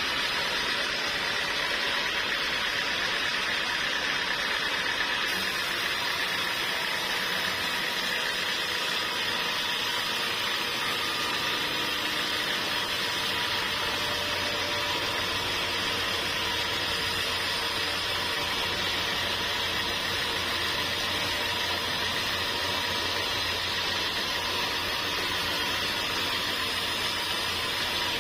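Sawmill machinery running steadily, a constant mechanical whir and hiss, with a low hum joining about halfway through.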